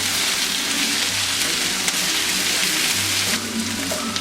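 Onion, green chillies and mint frying in hot oil in a pan, a steady sizzle, over background music.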